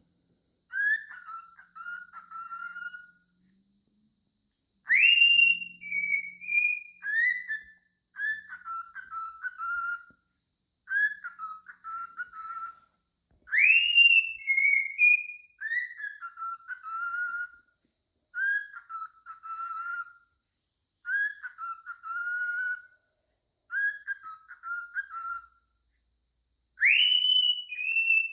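Cockatiel whistling a repeated tune in short warbling phrases every two to three seconds. A louder upward-swooping note opens the phrase about five seconds in, again about fourteen seconds in, and near the end.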